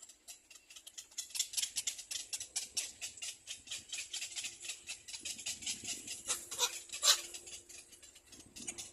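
Nestling birds begging in a rapid run of short, high chirps, about seven a second, with a few louder, sharper calls about six to seven seconds in.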